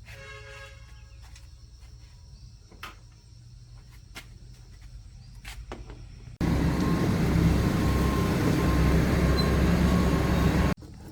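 Loud, steady machine noise, heaviest in the low end, that cuts in suddenly past the middle and stops abruptly about four seconds later, over a quiet workshop background with a few faint clicks.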